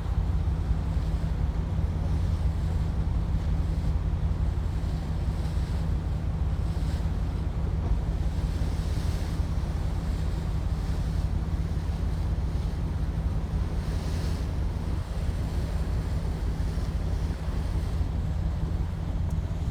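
Wind buffeting the microphone on a moving ship's open deck, a steady low rumble, over an even hiss of sea water rushing past, swelling a little twice.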